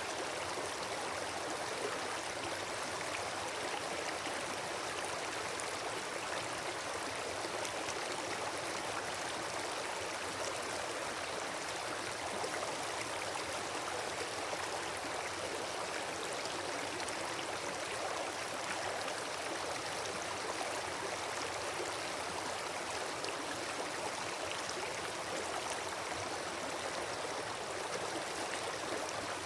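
Wood campfire burning: a steady hiss with many small, fine crackles.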